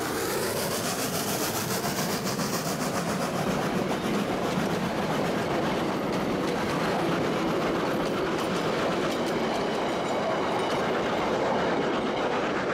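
Passenger carriages of a steam-hauled train rolling past on the rails, their wheels clattering over the rail joints, with a falling tone in the first second as the train moves on.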